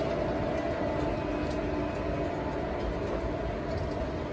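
Express passenger train running: a steady running noise with faint clicks now and then.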